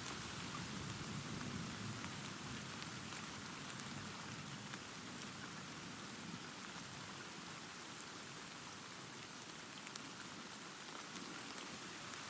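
Steady rain falling, a dense hiss with scattered sharp drop ticks, and a low rumble of distant thunder in the first few seconds that fades away.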